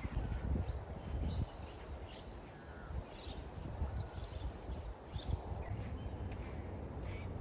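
Wild birds chirping and calling in short scattered notes, over a steady low rumble of wind on the microphone.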